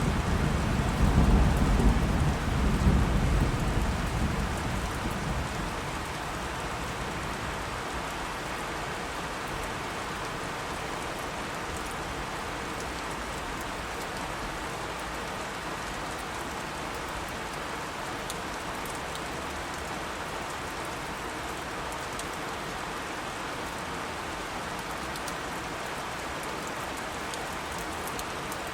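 Steady heavy rain falling, with a low rumble of thunder that fades out over the first few seconds.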